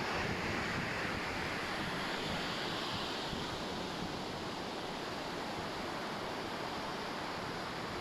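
Ocean surf washing onto a sandy beach: a steady rushing hiss, slightly stronger in the first few seconds and then settling.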